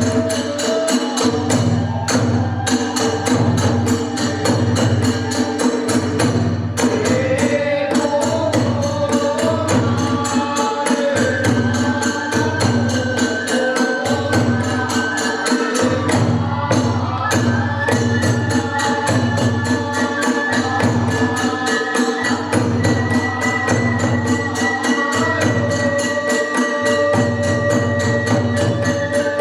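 Kagura hayashi music: a held, winding bamboo-flute melody over repeated drum strokes and fast, continuous clashing of small hand cymbals.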